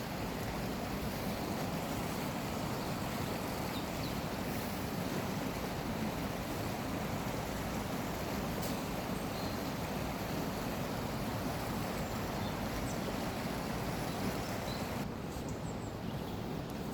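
Steady rush of waves and moving water, with a slight thinning of the hiss near the end.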